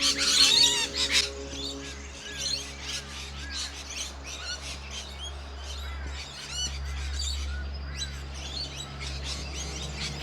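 Parrots calling, with loud harsh screeches in the first second, then many short repeated chirps. A steady low music bed runs underneath.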